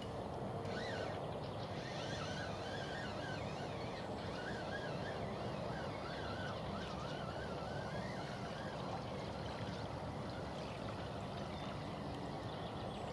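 Steady rushing outdoor background noise, with a bird singing a faint, wavering, warbling song from about a second in until about two-thirds of the way through.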